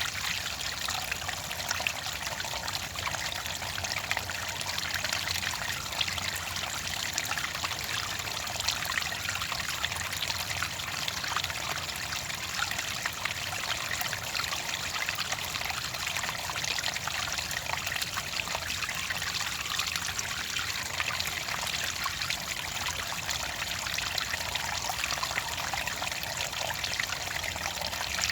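Clear water trickling and splashing in a steady, unbroken flow, full of fine bright droplet sounds.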